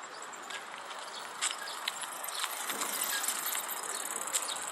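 Small birds giving short, high chirps and calls at irregular intervals over a steady background of outdoor noise.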